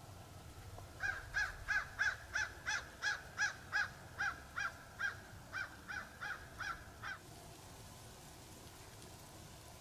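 A bird calling a quick run of about seventeen short, pitched notes, about three a second. The calls start about a second in and stop about six seconds later.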